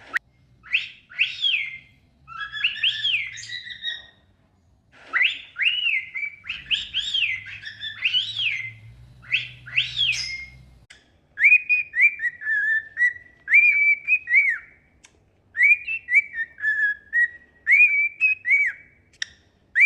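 Cockatiels whistling as they practise their song: short phrases of rising-and-falling whistles with pauses between them, turning into quicker runs of lower whistled notes in the second half.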